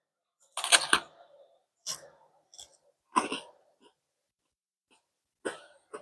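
Someone chewing crunchy freeze-dried ice cream up close: a handful of short, dry crunches at uneven intervals with pauses between them.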